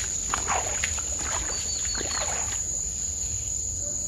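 Night insects trill steadily at a high pitch. Over the first two and a half seconds there are splashes and knocks from two hooked catfish being gathered together.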